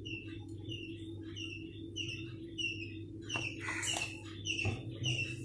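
A small bird chirping over and over, about two short falling chirps a second, over a steady low hum. A few soft knocks come about three and a half seconds in as oil goes into the clay pot.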